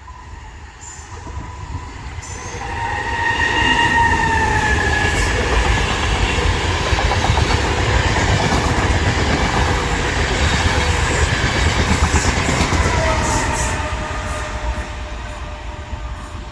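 Electric train passing through a station at speed: it builds from about two seconds in, runs loud for about ten seconds with wheel-on-rail noise and a high whine, and the whine drops in pitch as the train draws away near the end.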